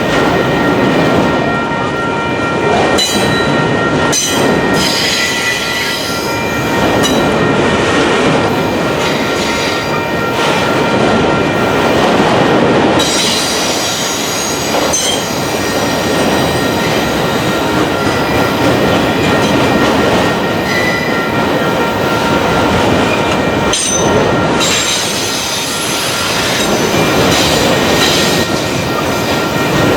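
Train cars rolling past on the rails, with steady high-pitched wheel squeal over the rumble of the wheels and a few sharp clacks.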